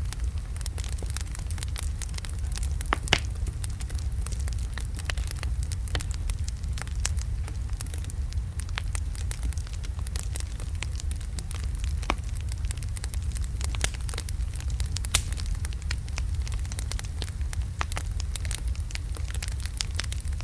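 Wood fire of large logs burning in a fireplace: a steady low rumble of flame with irregular crackles and an occasional louder pop.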